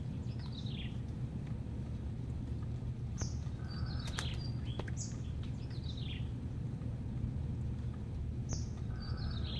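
A songbird singing short phrases of high, falling notes, the phrase coming back every few seconds, over a steady low background rumble.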